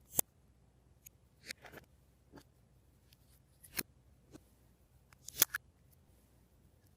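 Glossy slime being worked by hand, giving a scattering of short, sharp sticky clicks and pops, the loudest about a fifth of a second in and about five and a half seconds in.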